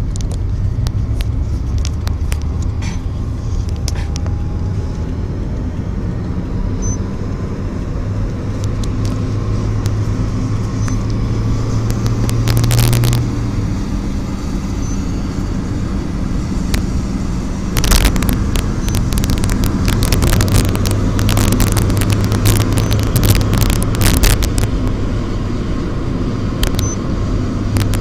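Road vehicle in motion: a steady low engine and road rumble, with a run of sharp clicks and crackles over the later part.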